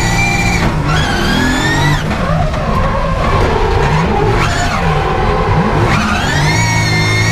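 Nissan S14's 2JZ-GTE straight-six revving hard on track, heard from inside the cabin. The revs climb about a second in, fall back, and climb again near the end, with tyres skidding through a drift.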